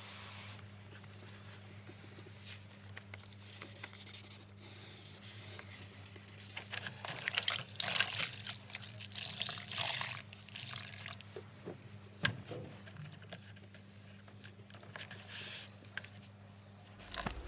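Hand wet-sanding with 1500-grit wet and dry paper on primer on a car bumper: irregular wet rubbing strokes, busiest in the middle, over a steady low hum.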